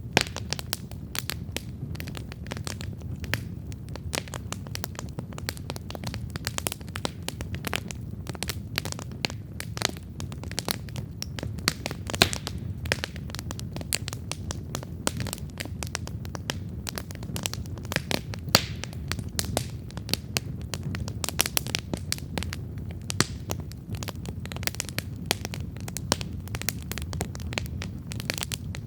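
Wood campfire crackling steadily with frequent small pops and snaps, a few louder ones, over the low rush of the flames.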